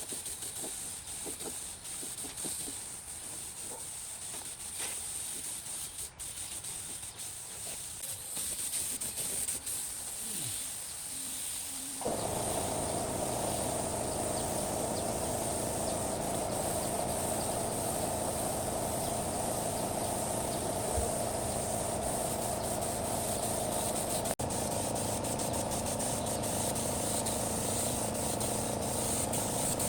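Compressed air hissing steadily from a spray gun, with a few faint scrapes. About twelve seconds in, a louder, steady machine noise starts abruptly and runs on under the hiss.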